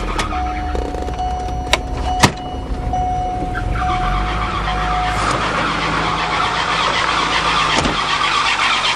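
Turbocharged Volvo engine running at idle after a makeshift radiator-hose repair. It is heard first from the cabin with a steady warning tone and two sharp clicks about two seconds in, then louder and rougher with the hood open, where a rapid flickering rattle comes from the radiator hose hitting the cooling fan.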